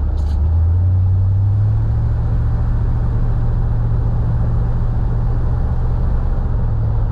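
1956 Ford Thunderbird's V8 engine and exhaust running with the car under way, heard from inside the cabin with the hard top on: a nice little rumble, not overbearing, over steady road noise. The rumble's pitch rises a little in the first two seconds, then holds steady.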